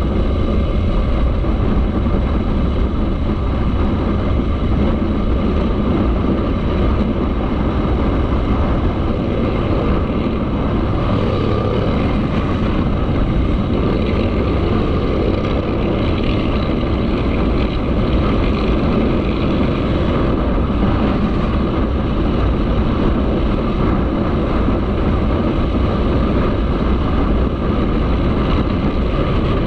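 Motorcycle running steadily while riding, its engine under a dense, even noise that holds at one level throughout.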